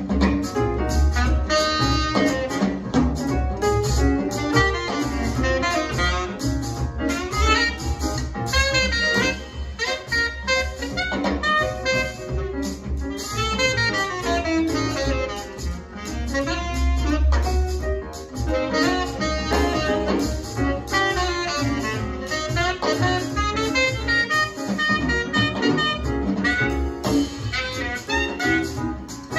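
Jazz recording with a saxophone playing the lead line over a rhythm section with a low bass.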